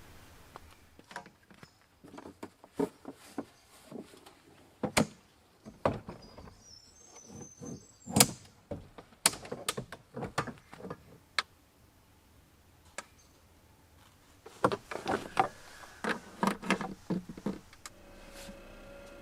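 Irregular knocks, clicks and clatters of camping gear being handled and set up, in two busy spells. A short high bird chirp comes about a third of the way in, and a steady low hum starts near the end.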